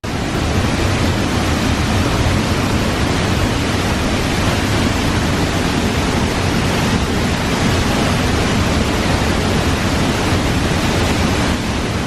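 A waterfall's steady rushing roar of falling water, loud and unbroken, starting and stopping abruptly at the edits.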